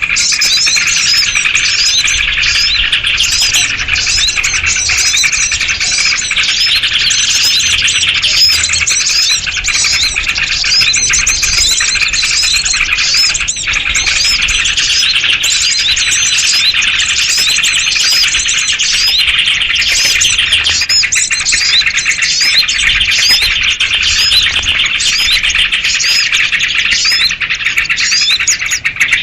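Dense, unbroken chorus of agitated sooty-headed bulbuls chattering and chirping over one another among other small birds. It is a 'ribut' (rowdy, alarm-style) lure recording, used to draw small wild birds in for trapping.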